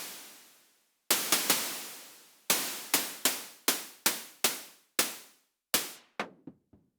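Elektron Syntakt's analog UT Noise machine triggered as a drum voice: a sequence of hissing noise hits, each fading out. A quick triple hit comes about a second in, and toward the end the hits come faster with much shorter decays, turning into short clicks.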